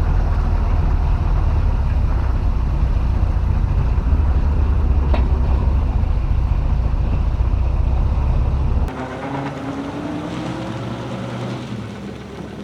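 Vintage car driving: a steady, loud low engine and road rumble that cuts off abruptly about nine seconds in. It gives way to a quieter car engine rising in pitch as it accelerates.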